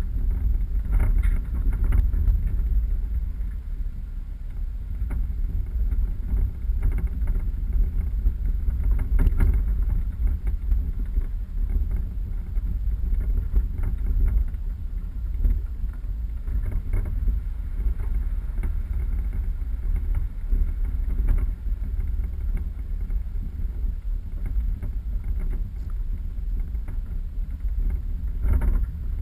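A 4x4 driving off-road: a steady low rumble, with a few short knocks from the rough ground.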